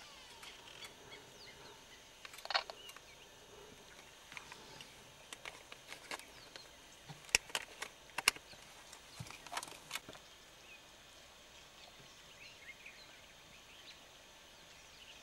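Wild birds chirping and calling now and then over a quiet outdoor background, with a few sharp clicks about seven to eight seconds in.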